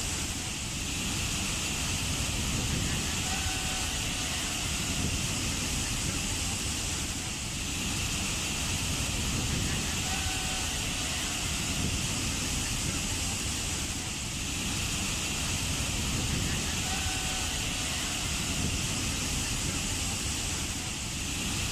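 Waterfall: a steady rush of falling water, swelling and easing gently about every seven seconds.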